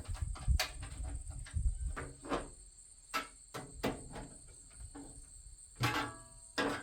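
Scattered clicks, clinks and knocks of metal smoker parts and screws being handled during assembly, with two louder clanks near the end that ring briefly. A steady high-pitched insect drone runs underneath.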